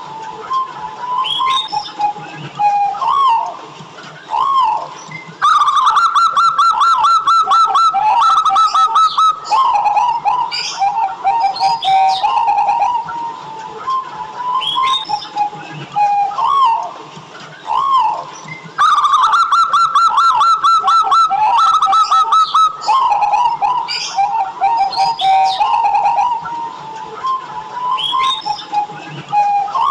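Zebra doves (perkutut) cooing over and over in soft rounded notes, with two louder runs of rapid repeated notes lasting about three to four seconds each, one early and one past the middle. Other small birds chirp higher up now and then.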